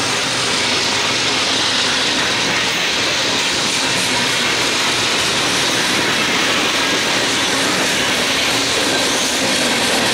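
CSX freight train passing close by. The trailing GE ET44AH locomotive's engine is running, then the tank cars' steel wheels roll over the rails, making a steady, loud roar with no breaks.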